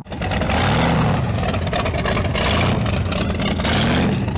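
Car engine revving twice, the pitch rising and falling with each blip of the throttle, about a second in and again near the end.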